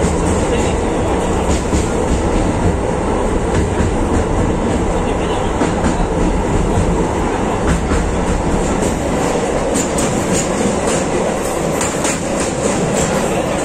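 Passenger train running at speed, heard from a window of the coach: a steady rumble of wheels on the rails with rail-joint clicks, which come more often in the second half.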